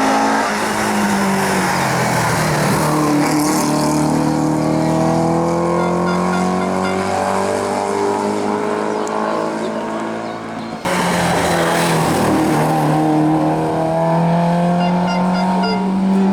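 Race car engines running hard at high revs, the pitch falling and rising with gear changes and passing cars. About eleven seconds in, the sound cuts abruptly to another car accelerating.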